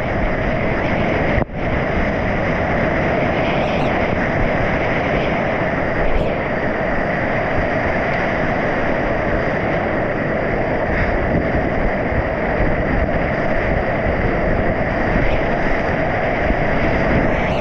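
Whitewater river rapids rushing steadily as a kayak runs through them, with a brief dropout about a second and a half in.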